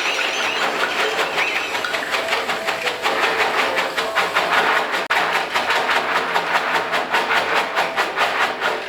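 Train-like chugging: a fast, even run of hissing pulses that speeds up in the second half, with a brief break about five seconds in.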